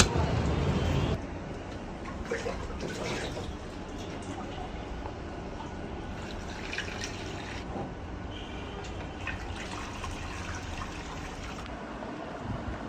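Liquid trickling and dripping, with a few faint clicks; a louder noise cuts off about a second in.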